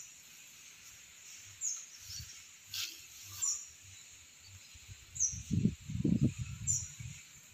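A small bird giving short, high, falling chirps, one about every one and a half to two seconds. In the second half, low rustling and knocking from handling close to the microphone.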